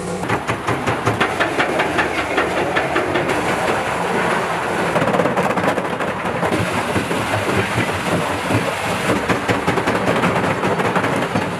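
Generator engine running steadily with a rapid, even chugging beat, about six beats a second.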